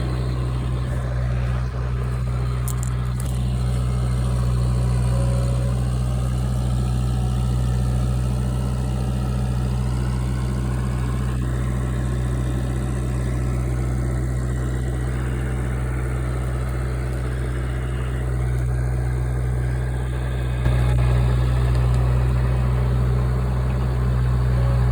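An engine idling steadily, a constant low hum that barely changes.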